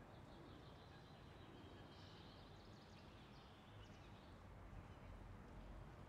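Near-silent outdoor ambience: a low, even background hum with faint, high bird chirping and twittering that fades out about four and a half seconds in.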